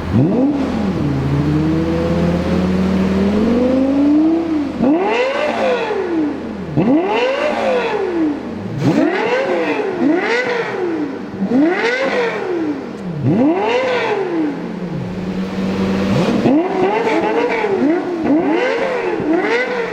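Lexus LFA 4.8-litre naturally aspirated V10 engines (stock exhaust) free-revving while stationary. Early on one engine climbs slowly in revs, then come repeated quick blips that shoot up and fall back every second or two; about halfway through, both LFAs rev at once with overlapping blips.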